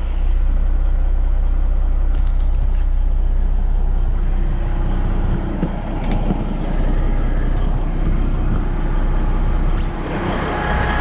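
Heavy truck running, a steady low engine drone with road noise. About ten seconds in the sound changes, with more hiss and a faint high whine coming in.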